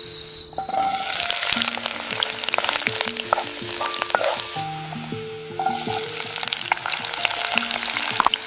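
Food frying and sizzling in a pan, with the small clicks and scrapes of stirring. The sizzle starts about a second in and eases off briefly around the middle.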